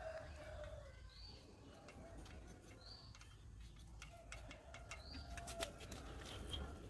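Faint bird chirps, a short call repeated about every two seconds, with scattered light clicks under them.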